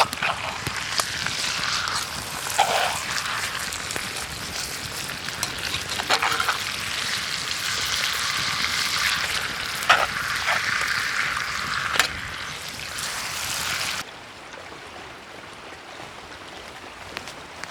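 Food frying over a campfire: a steady sizzle with scattered pops and crackles. It cuts off abruptly about fourteen seconds in, leaving a quieter, softer hiss.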